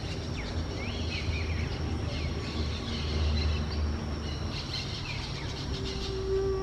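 Wild parrots chirping, many short chirps that bend up and down in quick succession. Underneath runs a steady high insect drone and a low rumble.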